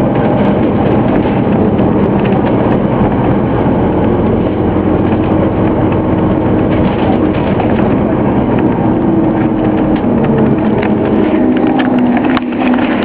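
Scania OmniCity single-deck bus's diesel engine running, its tone drifting up and down a little in the second half.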